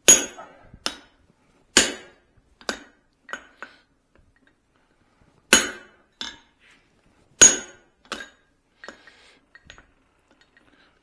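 Blacksmith's hammer striking steel on an anvil: about ten separate blows, unevenly spaced and some lighter than others, each with a short metallic ring.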